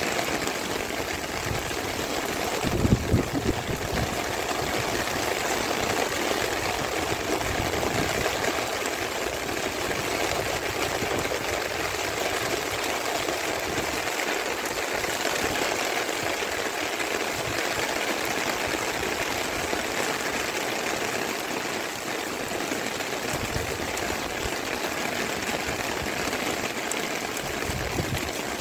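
Steady rain falling, an even hiss of water, with a brief low thump about three seconds in.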